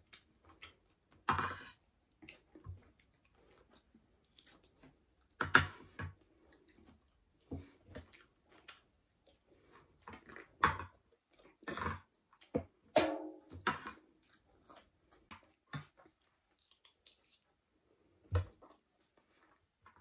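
Close-up eating sounds: chewing and crunching of food, with irregular sharp clicks and wet smacks.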